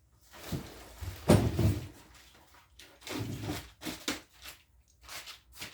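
A series of short knocks and rustles from things being handled and moved, the loudest about a second in, others following irregularly.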